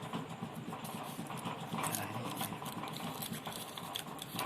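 Faint, irregular scratching and small clicks of hands handling parts on a TV circuit board while a capacitor is being fitted.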